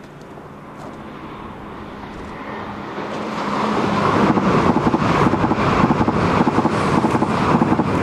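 E6-series Akita Shinkansen train approaching and passing at speed. A steady low hum grows louder over the first few seconds, then the passing cars bring a loud, rapid run of clacks from the wheels on the rails.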